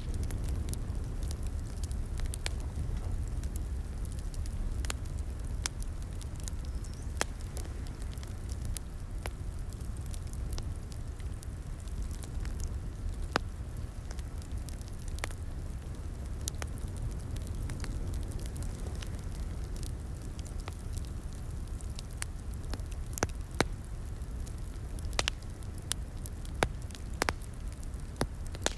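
Crackling wood fire in a fireplace: a steady low rumble of flames with irregular sharp pops and snaps, a few louder pops near the end.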